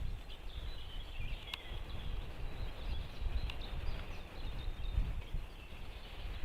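Low wind rumble on the microphone with faint, high bird chirps over it and one short falling call about a second and a half in.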